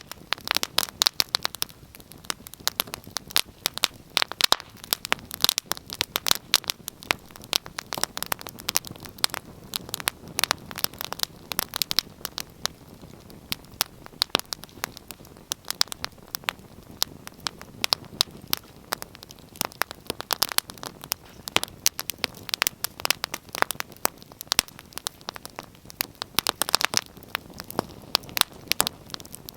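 Wood fire burning in a fireplace: dense, irregular crackling and snapping pops over a soft low hiss, with louder clusters of pops every few seconds.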